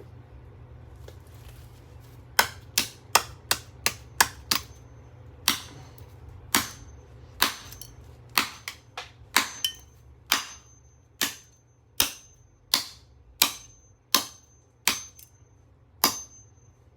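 Hammer blows on a small motor pulled from a Samsung microwave, about twenty sharp metallic strikes starting about two seconds in: a quick flurry first, then a steadier beat of roughly one blow a second, some leaving a brief high ring.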